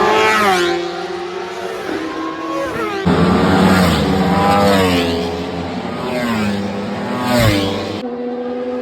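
Superbike engines running at high revs, their pitch sweeping down several times as bikes go by at speed. The sound changes abruptly about three seconds in and again near the end, where one clip gives way to another.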